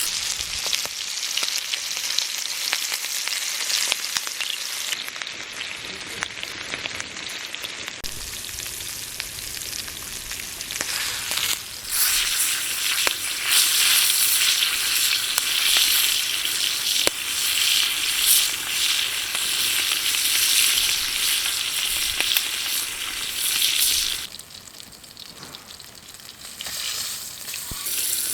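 Meat sizzling on an iron griddle over a bonfire: a steady frying hiss that grows louder about twelve seconds in and drops low for a few seconds near the end.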